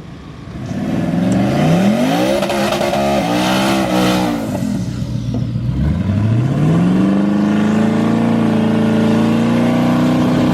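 Twin-turbo Mustang's engine pulling away, its pitch rising, easing off after a few seconds, then rising again and holding a steady drone.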